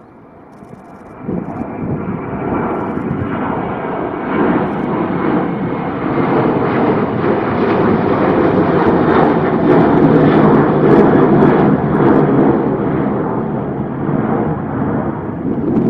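Boeing 737-800's CFM56 jet engines at takeoff power, growing steadily louder from about a second in and staying loud as the airliner rolls and climbs past. Gusts of wind buffet the microphone.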